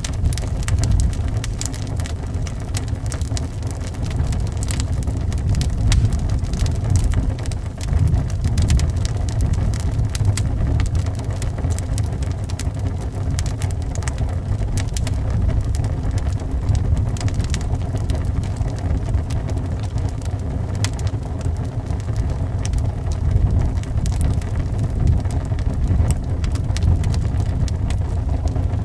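Wood fire crackling with scattered sharp pops over a steady low rumble of wind.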